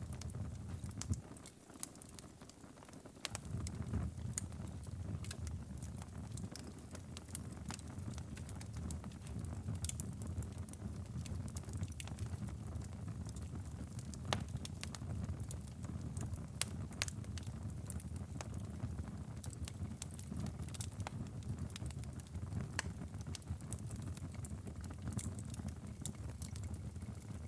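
Wood fire crackling, with frequent sharp pops over a steady low rumble. The rumble drops away for a moment about two seconds in, then returns.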